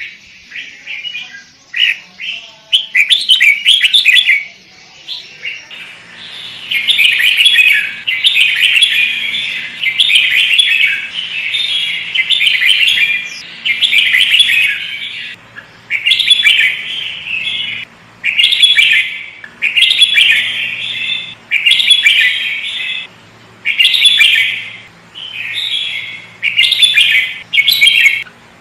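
Sooty-headed bulbul (kutilang) singing: short scattered chirps at first, then a run of rapid, chattering phrases about a second each, separated by brief pauses.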